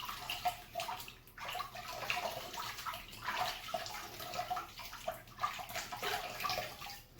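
Water splashing as a face is wetted by hand before shaving, in uneven splashes.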